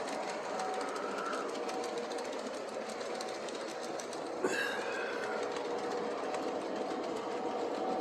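Model GG1 electric locomotive running slowly along the track, its motor running with many fine clicks of wheels over the rails. It is crossing a switch that it partially throws when going slow. About halfway through comes one sharp click with a short falling squeal.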